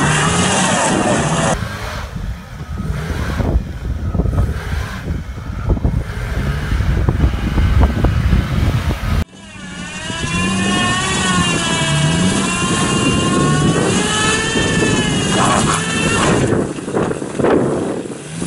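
Fiat Panda 4x4 engines revving hard as one Panda tows another out of a deep mud rut on a strap, the revs rising and falling unevenly. The sound cuts off abruptly about nine seconds in and picks up again with the revs wavering.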